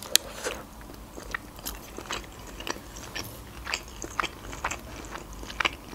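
A person eating: a bite into a baked sushi roll right at the start, then steady chewing with many short mouth clicks.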